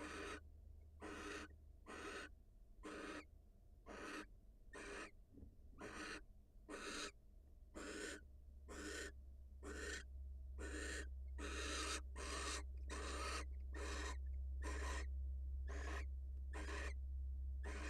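Barn owls giving their rasping hiss-like 'snoring' calls, a steady train of short hisses about two a second. A low steady hum runs underneath and grows louder about ten seconds in.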